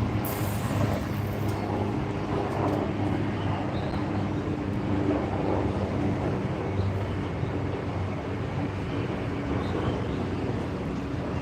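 Steady drone of a running engine, even throughout, with a few faint high chirps now and then.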